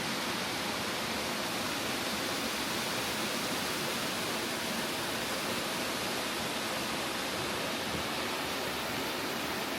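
Steady, even rushing noise with no distinct events, such as wind or distant water heard outdoors.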